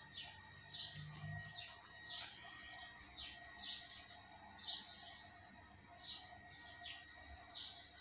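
Faint bird chirping: short, falling chirps repeated roughly once a second, with a thin steady high whine underneath.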